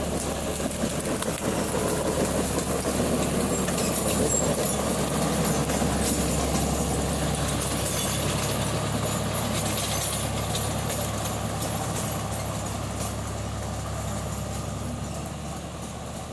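Tractor engine running steadily, growing louder over the first few seconds and slowly fading toward the end.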